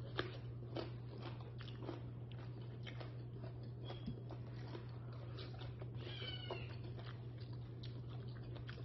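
Close-up eating sounds: chewing with scattered wet mouth clicks and smacks, over a steady low hum. About six seconds in there is a brief high, wavering squeak lasting about half a second.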